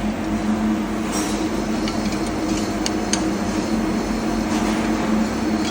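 Steady machinery drone with a constant low hum, and a few light sharp clicks about one, two and three seconds in.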